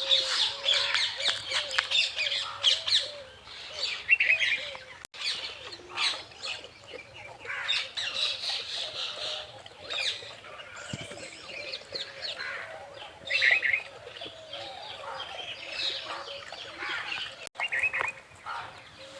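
Many small birds chirping at once, a dense, overlapping chatter of short high calls with the odd squawk.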